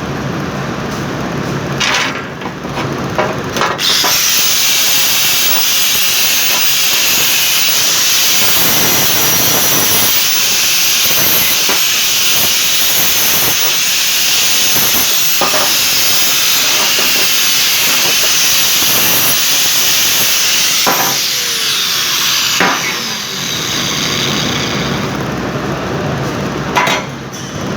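Angle grinder grinding steel exhaust tubing: a loud, steady hissing grind starting about four seconds in. Near the end the disc winds down with a falling whine. A few sharp metal knocks come before and after.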